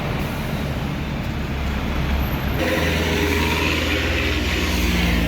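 Heavy trucks passing on the road, a steady low engine drone with tyre and road noise; the sound changes abruptly about two and a half seconds in.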